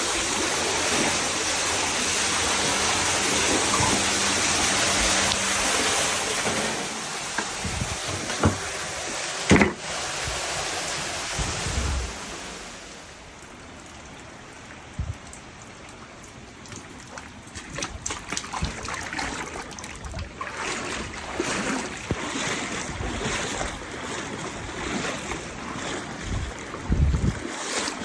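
Rushing floodwater, loud and steady for about the first twelve seconds, then quieter, with scattered knocks and bumps, including a sharp one near ten seconds in.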